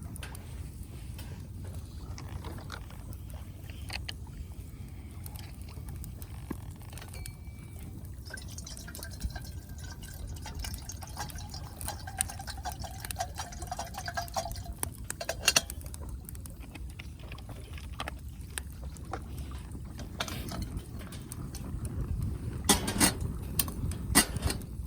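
Wood fire burning in a fire stand, with a low steady rumble and scattered crackles and sharp pops, the loudest pops near the end. A thin whistle runs for several seconds in the middle.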